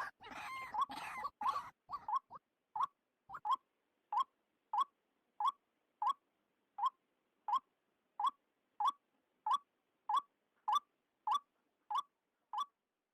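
White-breasted waterhen (ruak-ruak) calling: a long run of short, hooked notes repeated evenly, about one and a half a second. It is jumbled with other calling at first, then settles into a single steady series.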